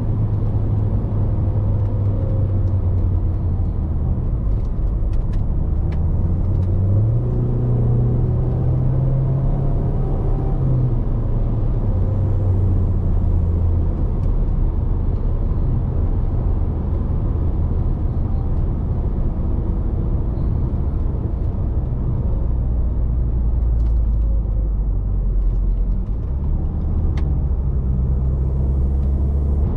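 Range Rover Evoque's turbocharged 2.0-litre four-cylinder petrol engine running under way with an automatic gearbox, its low note stepping up and down in pitch, over steady road rumble.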